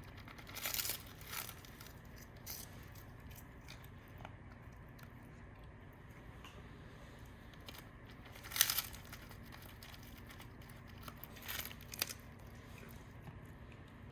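A few short rustling noises over a steady low hum, the loudest about halfway through and two more close together near the end.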